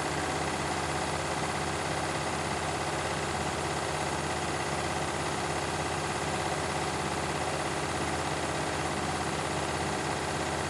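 Beko and Candy washing machines spinning together: a steady motor hum with several fixed tones over the rush of the drums, holding an even speed.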